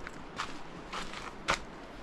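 Footsteps of a walker at a steady pace, about two steps a second, each a short sharp scuff.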